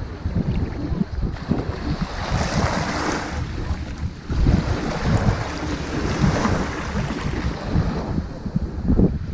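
Ocean waves washing onto a sandy beach, the hiss of the surf swelling and easing, with wind buffeting the microphone as a low rumble.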